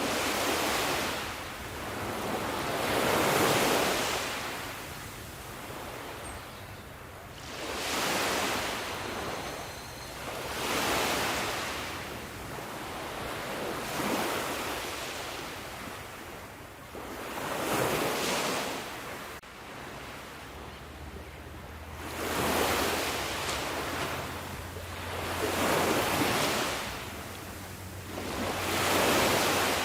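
Ocean waves breaking and washing on the shore in a slow, steady rhythm, each wave swelling up and falling away every three to four seconds.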